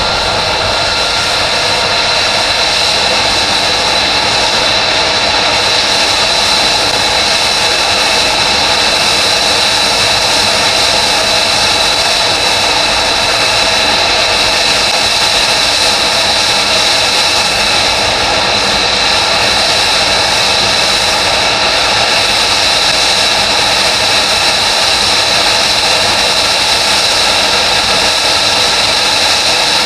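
An F-35B's F135 turbofan running steadily at low power, a loud even jet hiss with a high, unwavering whine.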